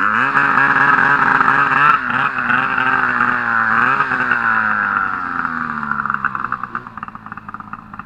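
Turbocharged Arctic Cat M1000 snowmobile's two-stroke twin engine revving hard and holding high revs, with brief dips about two and four seconds in, then winding down and fading after about five seconds.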